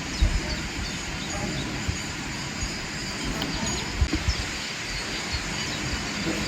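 Outdoor ambience: a steady noisy hiss with irregular low rumbling gusts, like wind on the microphone, and a few short bird chirps.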